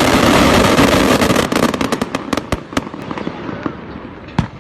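A string of firecrackers going off in a dense rapid crackle, thinning to scattered single bangs over the last couple of seconds, with one sharp bang near the end.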